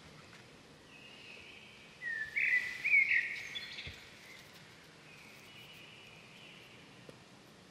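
Birds calling over a faint outdoor background hiss: several short whistled calls with quick upward hooks, loudest about two to three seconds in, with fainter calls before and after.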